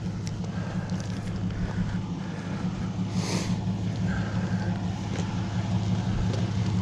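A steady low mechanical hum, like a running motor or engine, with a short hiss about three seconds in and a few light clicks and knocks.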